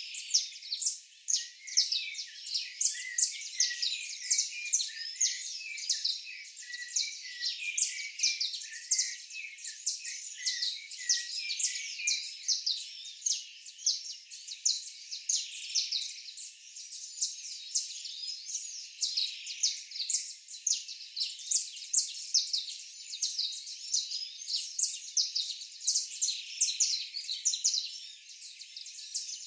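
Birds chirping, many quick overlapping chirps that keep going without a break.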